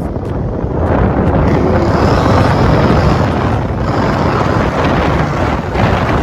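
Mercedes with an upgraded twin-turbo engine and new exhaust pipes running hard, heard from inside the car as a loud, dense rush of engine and exhaust noise that swells about a second in and stays loud.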